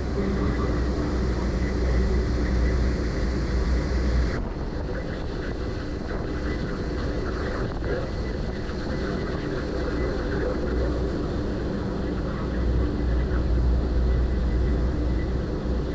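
Car ferry's diesel engines running steadily under way, a constant low drone and rumble.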